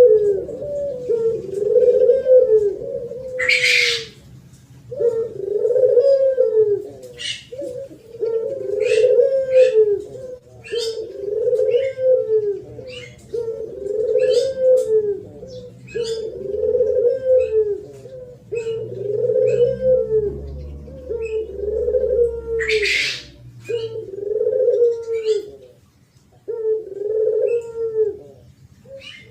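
Spotted dove cooing in the thổ pháp style, a low phrase repeated about every two seconds with a short pause after the first two. Faint high chirps sound between the coos, and two brief hissy bursts break in, one near the start and one about two-thirds of the way through.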